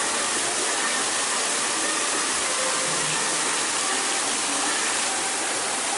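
Steady rushing of falling water, such as a restaurant's indoor decorative waterfall, with faint voices in the background.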